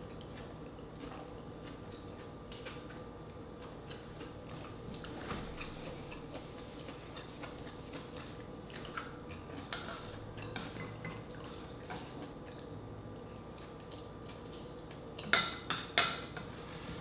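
Soft wet chewing and mouth sounds of someone eating mussels, over a faint steady hum. Near the end comes a quick cluster of sharp clicks, a wooden spoon knocking and scraping in a wooden bowl.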